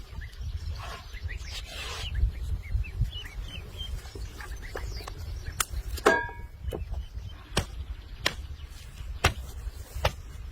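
Outdoor ambience: faint short bird chirps over a steady low rumble, with scattered sharp clicks and one brief louder call about six seconds in.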